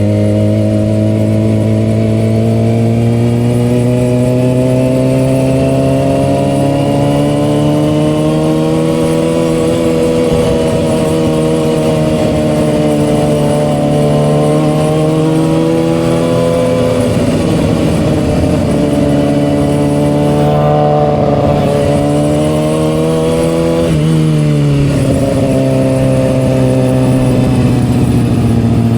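Kawasaki ZX-6R inline-four through an M4 aftermarket exhaust, running steadily with its pitch slowly rising and falling. About 24 seconds in the revs drop sharply, then climb again.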